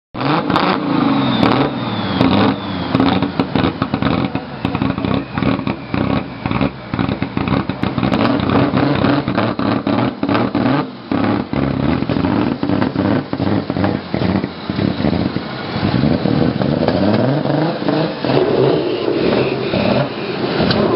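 A BMW E36 drift car's engine being revved up and down in repeated blips, with many sharp pops and crackles from the exhaust. Toward the end the revs settle lower as the car pulls away.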